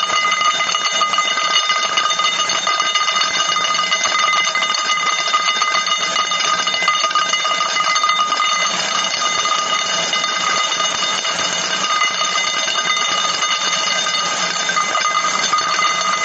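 Rapid, continuous clicking with several steady high-pitched ringing tones underneath.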